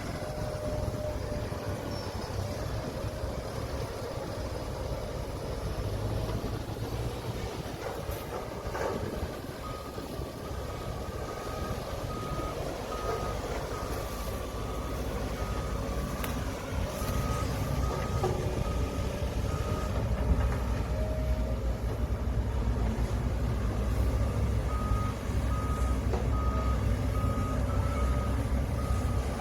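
Heavy diesel earthmoving machinery running with a steady low rumble, while a reversing alarm beeps at an even pace for a long stretch starting about a third of the way in, and again near the end.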